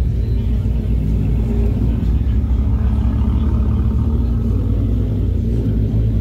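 A car engine idling steadily, deep and even, with no revving.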